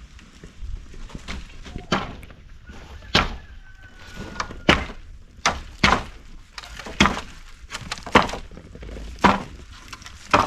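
A series of sharp knocks or blows, roughly one a second, starting about two seconds in.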